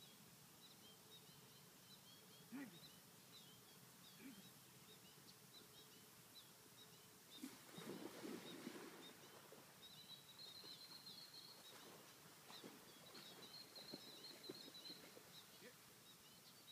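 Faint birdsong: repeated short high chirps, joined by a high trill about ten seconds in. About halfway through there is a brief splash in the water.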